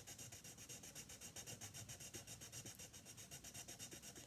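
Pencil scribbling on paper in quick, even back-and-forth strokes, a faint, dry scratching that keeps a steady rhythm.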